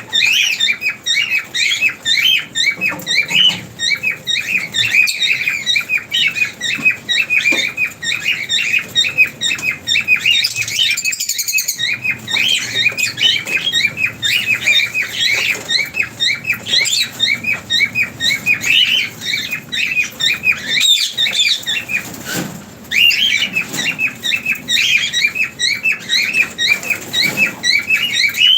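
A flock of pet lovebirds chirping nonstop, many short high chirps overlapping several times a second, with brief lulls about eleven and twenty-two seconds in.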